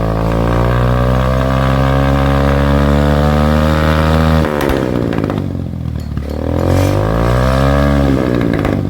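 Single-cylinder motorcycle engine running through a newly fitted aftermarket 'fire' exhaust, being revved: the engine speed climbs slowly for about four seconds and drops off sharply, then rises again and falls back near the end.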